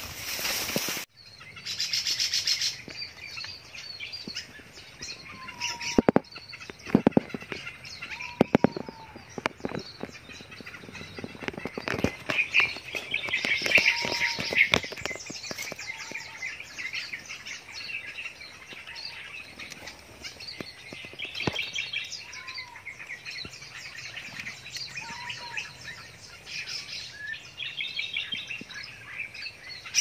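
Small birds chirping and trilling in the brush, with short whistled call notes now and then. A few sharp clicks or knocks come about six to nine seconds in.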